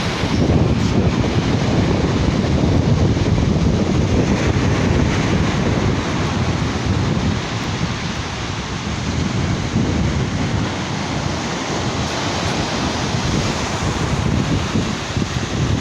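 Sea waves washing on a beach, with wind buffeting the microphone in a heavy, unsteady rumble.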